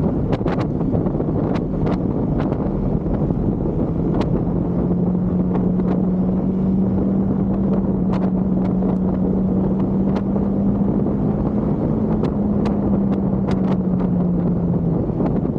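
Husqvarna Svartpilen 401's single-cylinder engine running at a steady cruise, its note rising slightly about four seconds in and easing off near the end, under heavy wind buffeting on the microphone. Scattered sharp ticks sound throughout.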